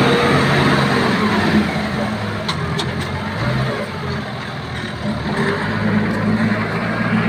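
Heavy diesel engine running steadily; it eases off about four seconds in and picks up again shortly after.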